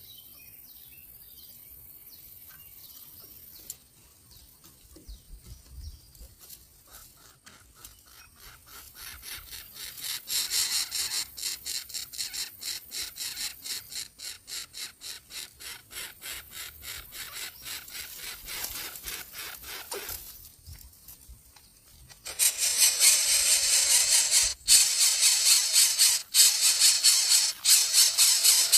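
Nestling birds of prey in the nest giving fast, harsh rasping hiss-like begging calls, repeated many times a second, growing louder and becoming loudest and densest over the last several seconds.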